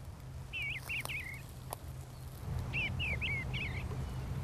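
A songbird singing: two short phrases of quick, slurred whistled notes, one about half a second in and another near the three-second mark, over a low steady rumble, with a couple of faint clicks.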